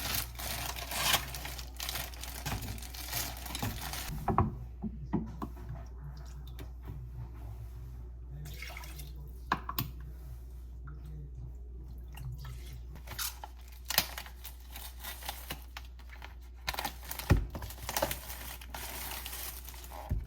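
Kitchen food-preparation sounds: water splashing and dripping, with many short knocks and clinks of bowls and utensils over a steady low hum.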